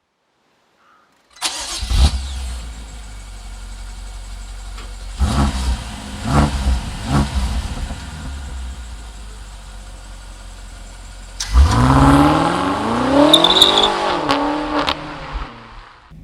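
BMW X6 M's twin-turbo V8 starting with a loud flare about a second and a half in and settling to a steady idle. It is then blipped three times in quick succession, and near the end revved up hard with rising pitch before dropping back.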